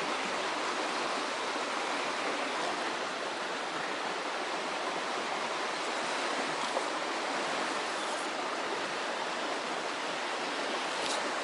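Shallow, fast-flowing mountain stream rushing steadily over stones.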